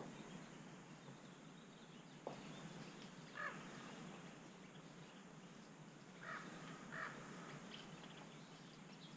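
Faint outdoor quiet with a bird cawing three times, about a third of the way in and twice close together later, and a single sharp click shortly before the first caw.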